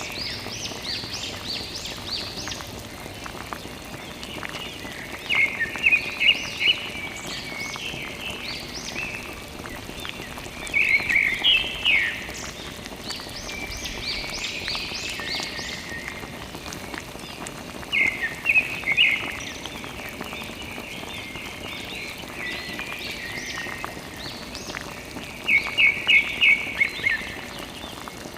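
Bursts of quick, high chirping animal calls, repeating every six or seven seconds, over a steady background hiss.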